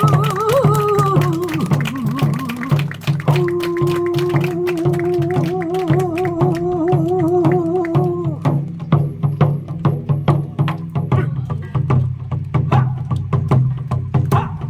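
Korean traditional singing (sori) accompanied by a buk barrel drum. For about the first eight seconds a voice holds long notes with a wide vibrato over a steady beat of drum strokes. The drumming then carries on alone with sharp, rapid strokes.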